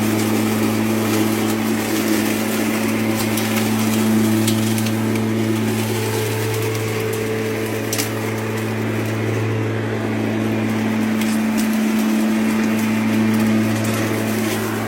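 Lawn mower running steadily with a constant hum while picking up fallen leaves, with scattered clicks and crackles from debris going through it.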